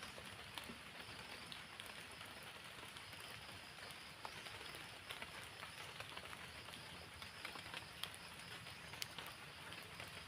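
Steady light rain, a soft even hiss with scattered sharp drip ticks.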